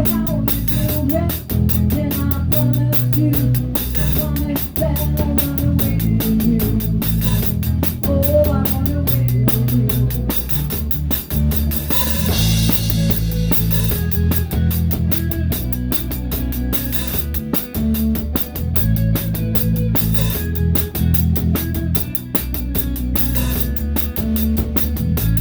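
Live rock band playing an instrumental passage: a Pearl drum kit close to the microphone, its snare damped with a towel, over bass and electric guitar.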